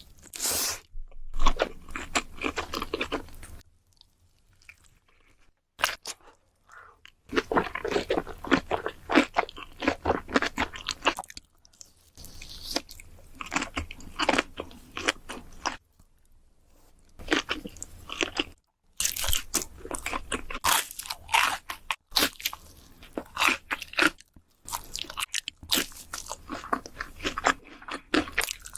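Close-miked crunching and chewing of crisp food, in bursts of bites a few seconds long with brief pauses between them.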